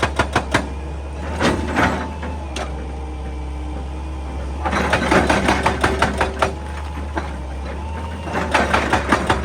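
Excavator engine running steadily under three bursts of rapid, evenly spaced blows, about five to six a second, from a hydraulic breaker hammer pounding rock. The bursts come at the start, about halfway through, and near the end.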